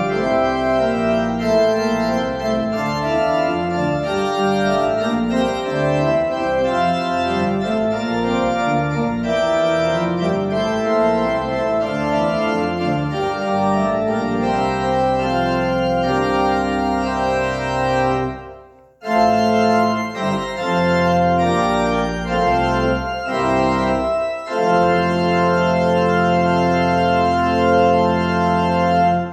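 Church organ playing full sustained chords over a moving bass line. It breaks off briefly about two-thirds of the way through, then comes back and ends on a long held final chord that stops.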